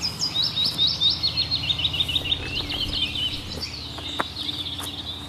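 Songbirds chirping: runs of quick, high, falling notes and a trill. A low steady hum lies underneath.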